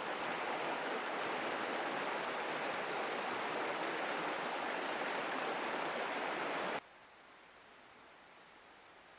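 Steady rush of a river's flowing water, cutting off suddenly about seven seconds in and leaving only a faint hiss.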